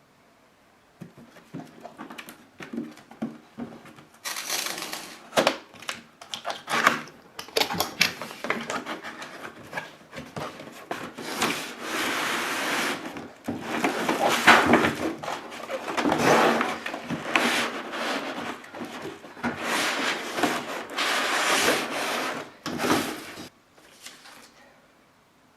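Packaging being handled and opened: irregular rustling, rubbing and scraping of box and wrapping, with occasional knocks.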